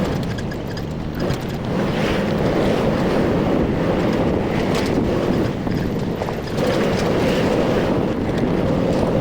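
Wind buffeting the microphone of a moving Rusi RFI 175 motorcycle: a loud, steady low rush that dips briefly about a second in and again near two-thirds through.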